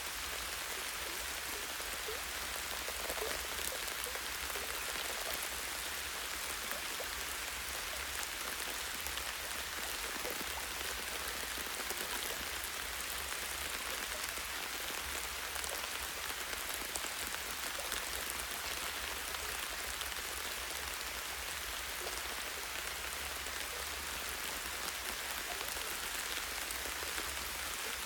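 Light, steady rain falling in a forest, a constant hiss of drops with scattered individual drops ticking on leaves and branches.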